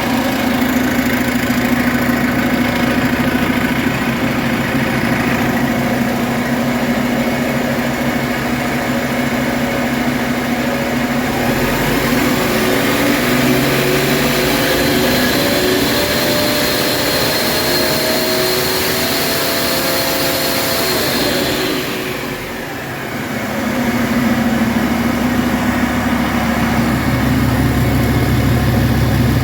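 2018 Cummins ISX12 inline-six diesel engine on a test run: idling steadily, then revved up about a third of the way in and held at higher speed for around ten seconds, before dropping sharply back to idle. It runs smoothly, in good running order.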